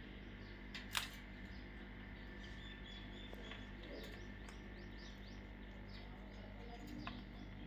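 Parrots chirping faintly, in many short repeated calls, with a sharp click about a second in and a steady low hum underneath.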